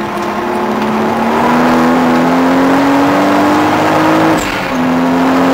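Toyota Supra's twin-turbo straight-six heard from inside the cabin at full throttle, its pitch climbing steadily through a gear for about four seconds, then a quick upshift with a brief dip before it pulls on.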